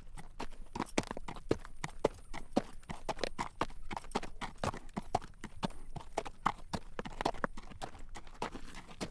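Horse's shod hooves clip-clopping on a road at a walk while drawing a carriage: a steady run of sharp clacks, several a second.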